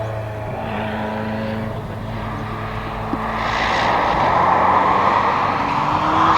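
Ferrari F40 LM's twin-turbo V8 running at low revs, with a broad rushing engine and exhaust noise building louder over the second half.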